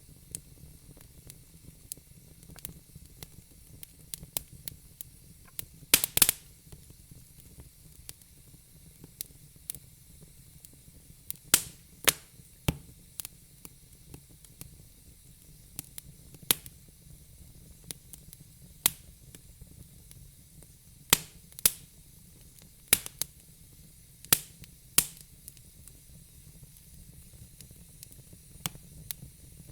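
Fire crackling: irregular sharp pops and snaps, a few seconds apart, over a soft steady hiss, with a loud cluster of pops about six seconds in.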